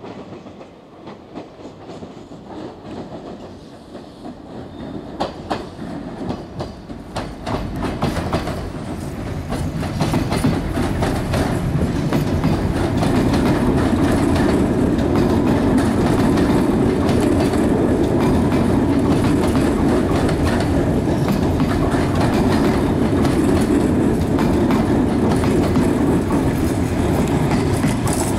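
Nankai 50000 series Rapi:t electric train approaching and running past the platform. Its wheels click over the rail joints and it grows louder over the first ten seconds, then becomes a steady loud rumble as the cars go by.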